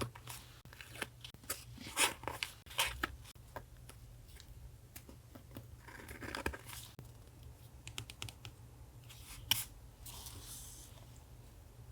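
Paper and stationery being handled for collage journaling: scattered light taps, clicks and short paper rustles, with a longer rustle about six seconds in and a sharp click near the end. A steady low hum runs underneath.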